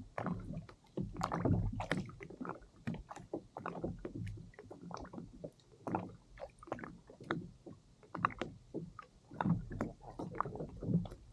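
Small sea waves slapping and sloshing against a kayak hull, a continuous run of irregular knocks and splashes.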